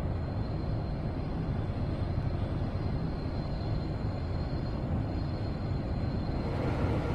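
Seoul Metro Line 2 subway train running between stations, heard from inside the carriage: a steady low rumble of wheels on rails with a faint high steady tone above it.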